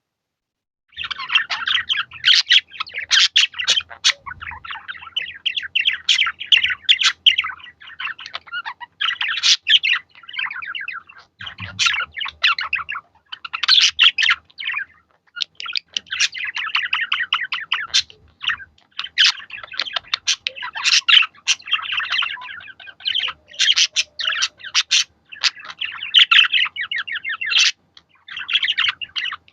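Budgerigars chattering: rapid chirping warble in bursts a few seconds long with short pauses between, starting about a second in.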